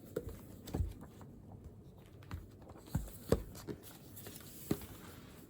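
Irregular light clicks and knocks of things being handled on a desk, with a sharper knock about three seconds in.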